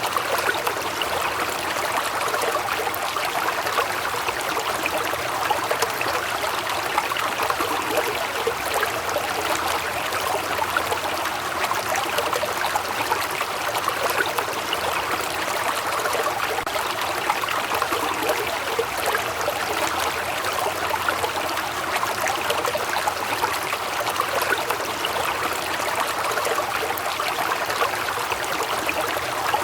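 Waterfall: water falling and splashing in a steady rush.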